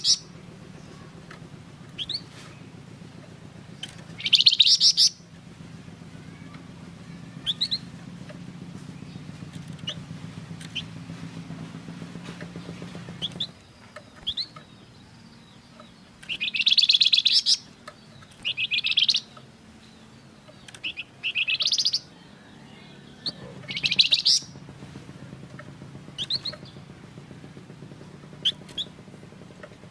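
Flamboyan songbird calling in short bursts of fast, rattling trills, each about a second long, with single short chirps between them. A low steady hum runs underneath for stretches.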